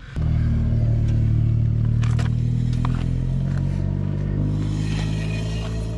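Alfa Romeo car's engine running steadily as the car drives along, a low even drone that eases off slightly toward the end.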